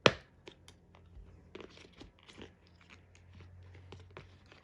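A steering-wheel part being pried out of its clips with a screwdriver: one sharp snap right at the start, then scattered small clicks and scrapes.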